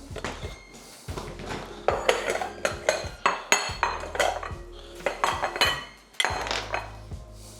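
Kitchen utensils clattering against pots, pans and dishes: a quick run of clinks and knocks, thickest in the middle, with background music underneath.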